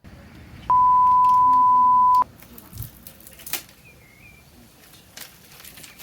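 A single loud, steady electronic beep of one pure pitch, about a second and a half long, starting and stopping abruptly. Faint background hiss with a few sharp clicks follows it.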